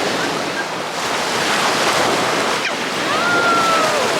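Sea surf washing onto the beach with wind buffeting the microphone. A single voice calls out in one held, slightly falling note about three seconds in.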